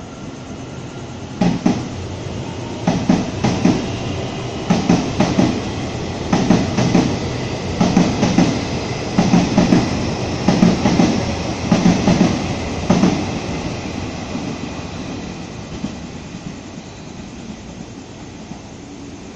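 Passenger train rolling past at moderate speed, its wheels knocking over a rail joint in paired clacks, one pair about every second and a half, over a steady rumble. The clacks stop after about 13 seconds and the rumble fades as the train moves away.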